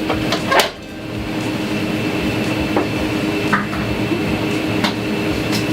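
Plastic parts of a small coffee machine clicking and knocking as they are unclipped and lifted out, a few sharp clicks, the loudest about half a second in, over a steady machine hum.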